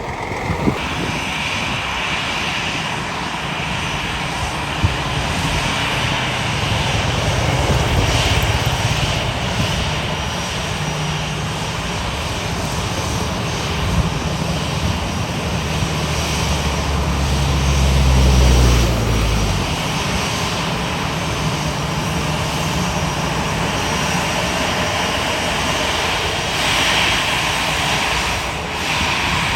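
Airplane engines running steadily, growing louder as the aircraft passes close about 18 seconds in, then dropping in pitch as it goes by.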